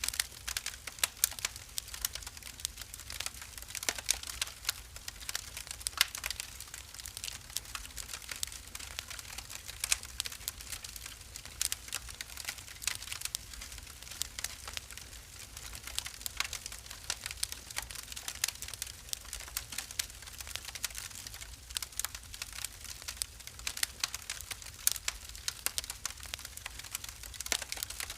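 Wood fire burning in a fireplace, crackling and popping with many quick, irregular snaps over a low rumble.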